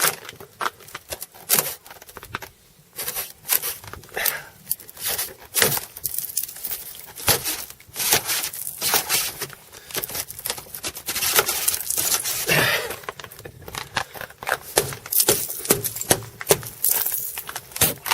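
Ice cracking and crunching in many sharp, irregular snaps as an ice-glazed Jeep door is tugged and worked at to break it free, with a longer scrape past the middle.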